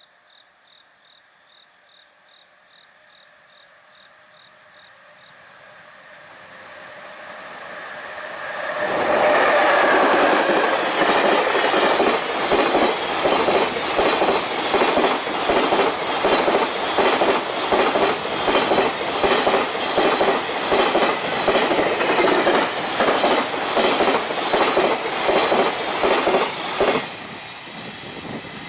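Freight train approaching and passing, its wheels clattering rhythmically over rail joints for nearly twenty seconds before dropping away. At the start a faint level-crossing bell dings about twice a second.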